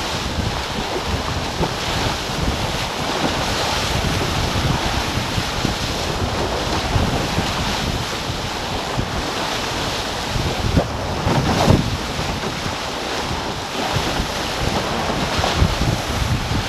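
Wind buffeting the microphone and water rushing and splashing past the hulls of a racing sailing catamaran under way, steady throughout, with a sharper louder splash or gust about twelve seconds in.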